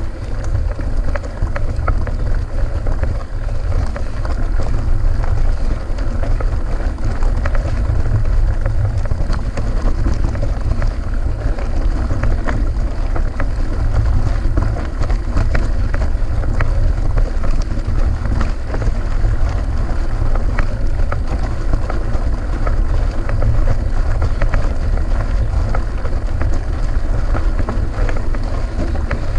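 Wind buffeting the microphone of an action camera riding on a mountain bike, with a steady heavy rumble and many small clicks and rattles from the bike and tyres on the rough course.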